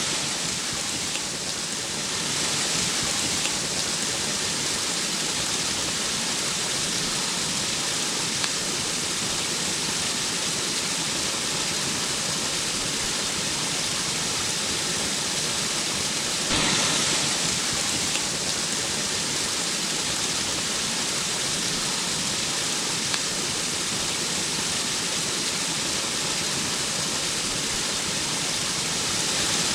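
Steady rush of flowing water, with a brief rise in level about seventeen seconds in.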